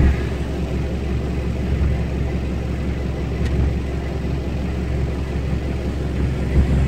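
Isuzu Panther's engine running with a steady low rumble, heard from inside the cabin.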